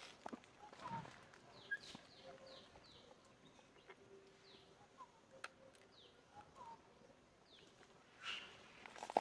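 Faint birdsong: a run of about five short, high, down-slurred notes about half a second apart, with scattered single chirps and small clicks.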